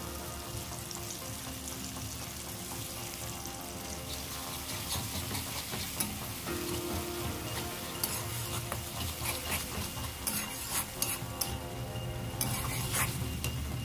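Onions, tomatoes and green chillies sizzling in oil in an aluminium kadai as mustard and garlic paste is stirred in. A spatula scrapes and clicks against the pan, more often after about eight seconds.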